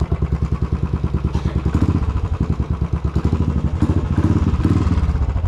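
Motorcycle engine running through a loud exhaust silencer, a fast, even pulsing that swells a little twice as the rider gets under way.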